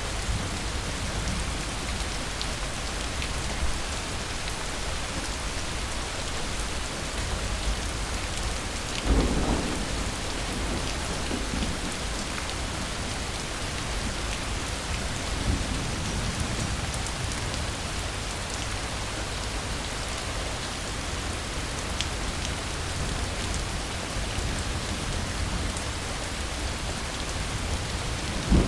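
Steady rain falling, with one clap of thunder about a third of the way in that rumbles off over a few seconds. Another thunder clap breaks at the very end.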